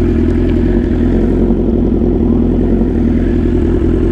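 BMW S1000 RR inline-four sportbike engine running steadily at low revs as the bike rolls slowly, with no clear rise or fall in pitch.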